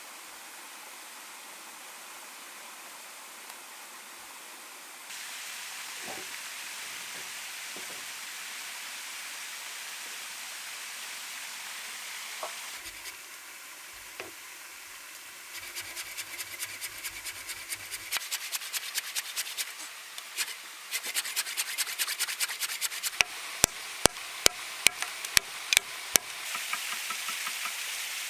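Hand-tool work: rapid rhythmic scraping or rubbing strokes, about four a second, over a steady hiss, then a run of about ten sharp knocks near the end.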